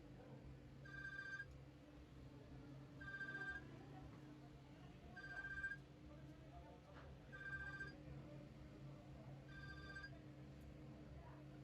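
Faint electronic beep of two notes sounded together, each about half a second long, repeating evenly about every two seconds, five times, over a steady low hum.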